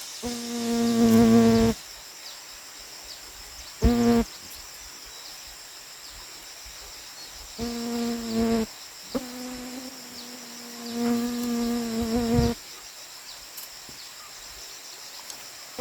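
Frogs calling after rain: four long, steady, pitched calls, the last lasting about three seconds with a slight waver, over a constant high drone of insects.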